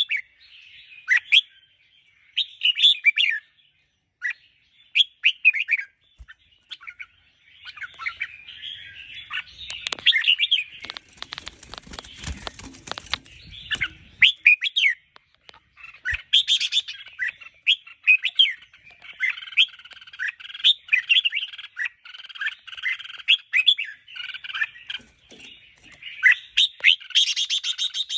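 Red-whiskered bulbul song: short, quick warbling phrases repeated over and over, the bird's excited chattering song. A few seconds of rustling noise break in about ten seconds in.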